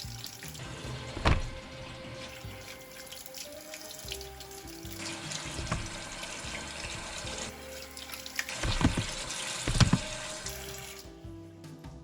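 Tap water running into a kitchen sink, with a few knocks about a second in and near the end, over soft background music.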